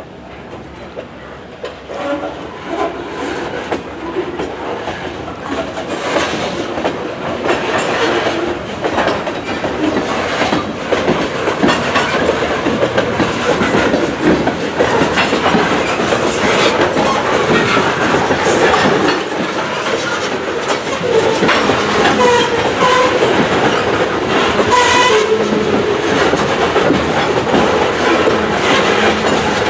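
A freight train rolling on jointed track, its wheels clicking over the rail joints as it comes closer and grows louder.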